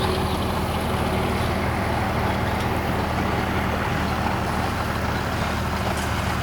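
Diesel train engine running steadily, a low even hum that holds the same pitch throughout.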